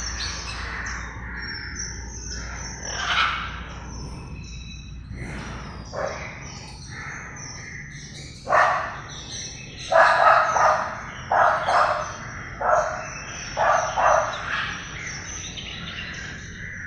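Parrot calling and chirping: high chirps throughout, then a run of about seven loud, short calls in the second half.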